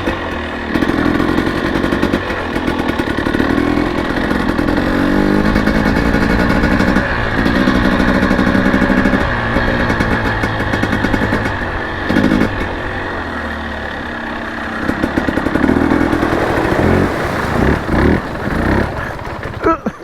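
Enduro dirt bike engine running under load on a trail, its revs rising and falling as the rider works the throttle.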